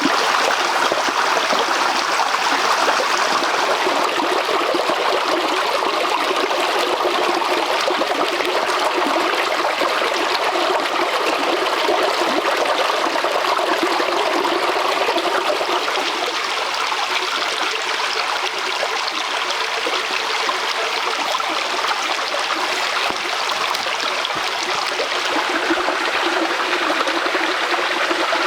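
A stream of water running steadily, a constant loud rush with no break.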